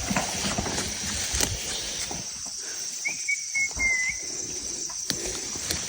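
Steady high chirring of insects, with scattered light knocks and a short whistled bird call about three seconds in.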